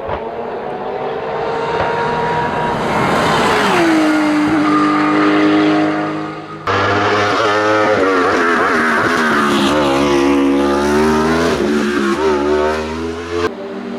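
Hillclimb race car engine at high revs, its pitch dropping sharply about four seconds in. About seven seconds in the sound cuts abruptly to another race car engine whose pitch dips and climbs again.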